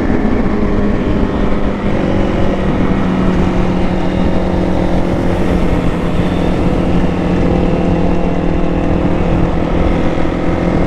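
Motorcycle engine running at a steady cruising speed while riding, a held drone with rushing wind on the microphone.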